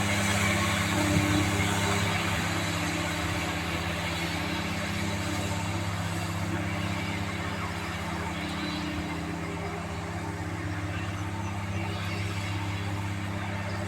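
Lawn mower engine running steadily, gradually getting quieter.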